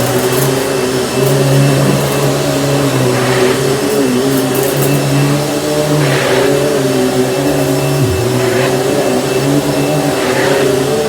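Panasonic upright vacuum cleaner running steadily with a humming motor, its pitch dipping briefly about eight seconds in, and short hissing swells of airflow every couple of seconds.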